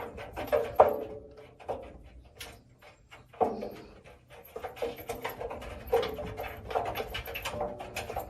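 A pet animal vocalizing in a string of short cries, with a few louder ones spread through.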